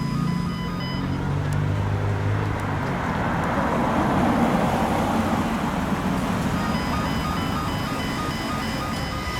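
A car engine running with a low drone as a car moves off, giving way to a broad noisy swell of a car passing that peaks about halfway through.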